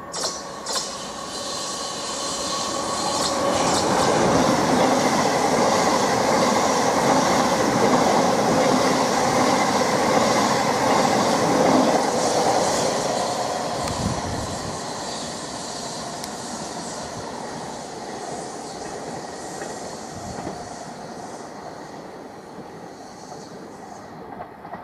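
Class 707 Desiro City electric multiple unit running through a station: the rumble of wheels on rail builds over about four seconds, stays loud with wheel squeal and clacking, then slowly fades as the train goes away.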